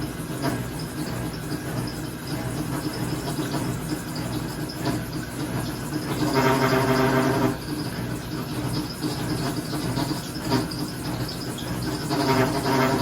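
Maytag MVWP575GW top-load washer running with a steady hum, broken by a loud pitched groan, about a second and a half long, that comes around every six seconds: once about six seconds in and again near the end. It is an abnormal noise the owners began hearing when washing a load of sheets.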